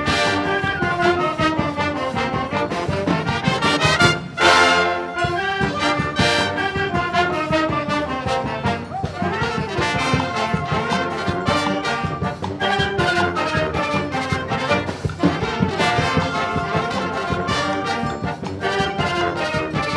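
A Brazilian filarmônica wind band playing an arranged forró/São João tune, led by brass with percussion keeping a steady beat. A loud full-band attack comes about four seconds in.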